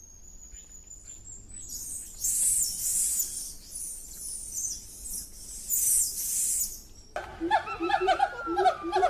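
Dense high-pitched chirping of forest birds for about seven seconds, then an abrupt switch to a larger bird's rapid run of short, repeated calls.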